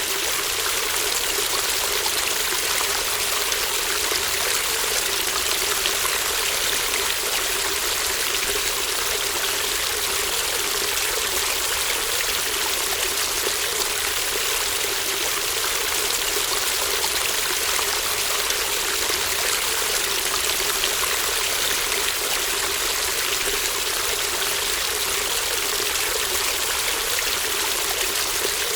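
A small stream babbling steadily, an even, continuous rush and trickle of running water.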